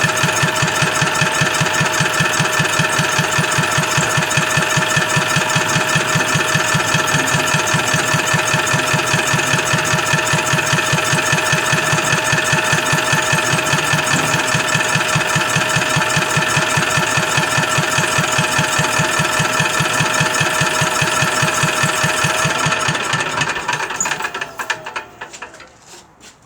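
Petter diesel engine being spun over steadily by a power tool without firing: a quick, even, rhythmic chuffing with a steady whine over it, which sags in pitch and stops about 23 seconds in. It is not starting because no fuel is coming out of its fuel pump.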